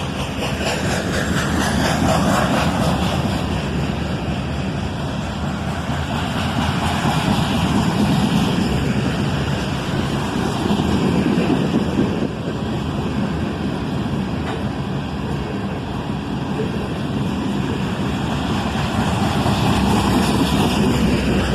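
A GE ET44AH diesel locomotive working as mid-train distributed power on a loaded iron ore freight passes with a steady engine rumble. The loaded ore cars roll by over the rails, and the level swells and eases every few seconds.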